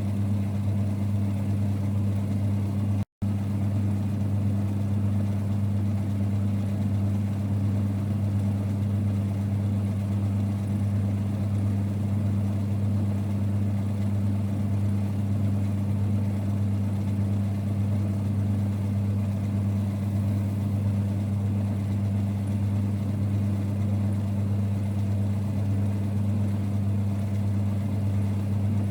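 1946 Boxford lathe running steadily with a constant low hum. The sound drops out for an instant about three seconds in.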